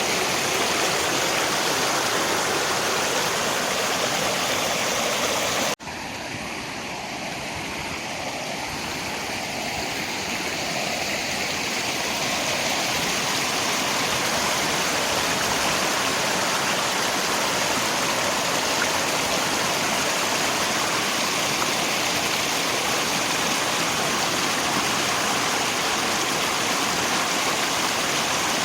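Steady rushing noise of rain and river water. About six seconds in the sound cuts out for an instant, returns quieter, and swells back to full level over several seconds, the mark of a loop or edit point in the recording.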